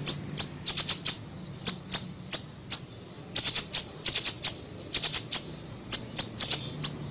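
Small siri-siri bird calling: short, sharp, high chirps that each sweep down, some single and some in quick runs of three or four.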